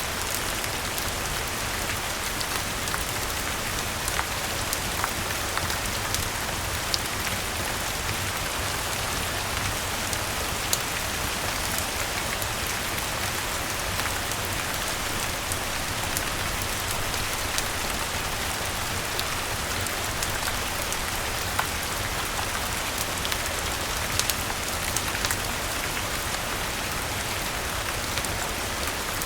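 Steady rain falling on leaves and ground, a dense even hiss, with scattered sharp ticks and pops through it.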